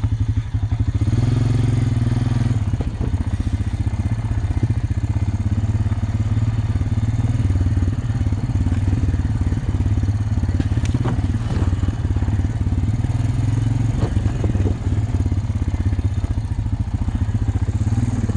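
2000 Honda Rancher ES ATV's single-cylinder four-stroke engine running steadily while riding, with a few brief knocks or clatters from the machine along the way.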